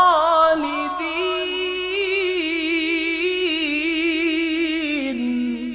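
A single voice reciting the Quran in a melodic tajweed style, holding one long drawn-out vowel on the word 'khalidin' with an even wavering ornament. The pitch steps down near the end.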